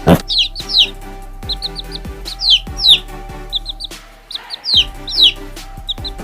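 A small bird chirping: short high notes, some in quick pairs and others sliding down in pitch, repeated in groups, over background music. A sharp knock sounds at the very start.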